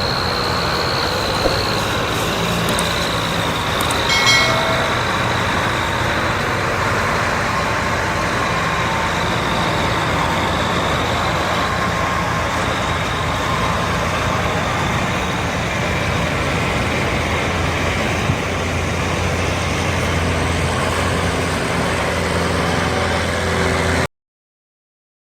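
Tractor diesel engine running steadily under heavy load while pulling a stuck trolley, with a steady high whine over the drone and a short sharp sound about four seconds in. The sound cuts off abruptly about a second before the end.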